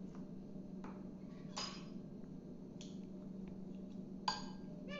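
Faint clinks and scrapes of kitchenware, a spoon against a dish, a few scattered strokes with the loudest giving a short ring about four seconds in, over a steady low hum.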